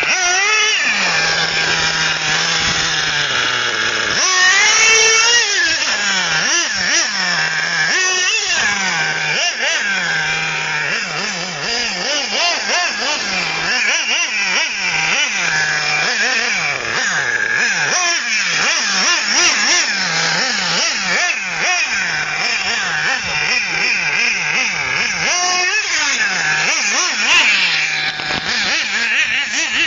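O.S. 30 nitro engine of an XRAY XT8 1/8-scale RC truggy, revving up and down over and over as it is driven, its high buzz rising and falling in pitch.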